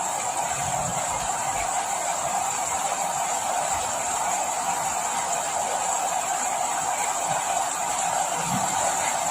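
Steady rain falling, an even hiss that holds the same level throughout, with a few faint, brief low patters.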